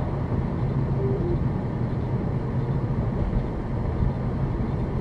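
Steady road and engine noise inside a car's cabin while driving on a highway, a low even rumble. A brief faint tone sounds about a second in.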